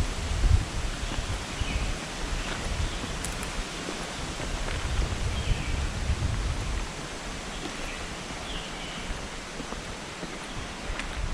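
Forest ambience: an even hiss with a few short bird chirps, and low rumbles at the start, around halfway and near the end.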